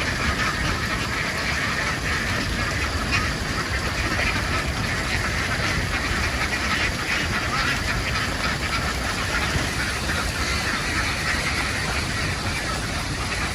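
A flock of domestic ducks quacking all at once: a dense, unbroken chatter of many overlapping calls, with a steady low rumble underneath.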